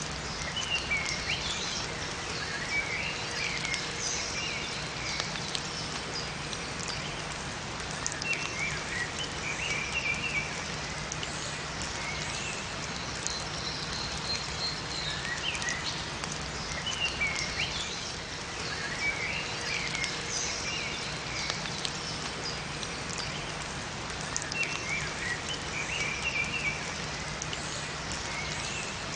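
Steady rain falling, with scattered drips, and small songbirds singing short twittering phrases over it that recur every several seconds.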